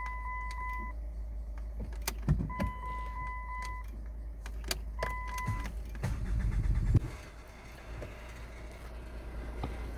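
Dashboard warning beeps sound three times, with a few clicks, then the Chrysler Grand Voyager 2.5 CRD's four-cylinder turbodiesel is cranked, with a loud rough rumble about six seconds in. It catches and settles into a steady idle.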